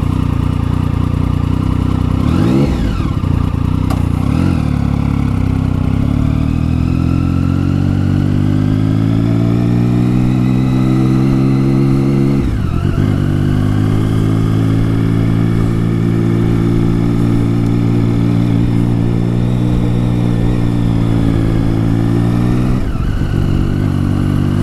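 Triumph Tiger 1050's inline three-cylinder engine, fitted with a new aftermarket exhaust, running under way at low speed. Its pitch climbs slowly, drops briefly about halfway through as if changing gear, then climbs again.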